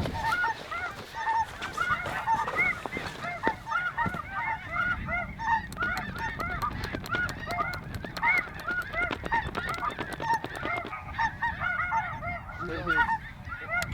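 A large flock of snow geese calling: a dense chorus of many overlapping short, high honks with no break.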